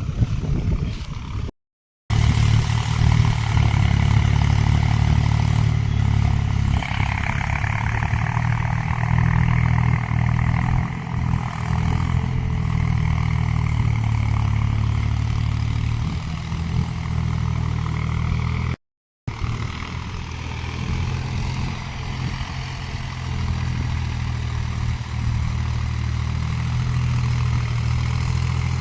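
Tractor's diesel engine running steadily under load, a continuous low hum, cut off by two brief gaps of silence.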